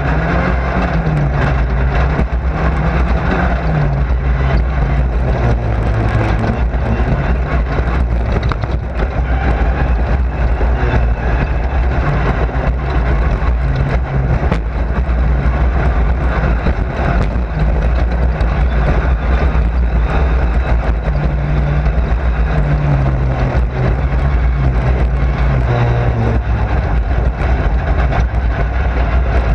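Race car engine under racing load, heard from inside the car: a loud, continuous engine note with rattling cabin noise, the pitch stepping down twice as the car comes off the throttle.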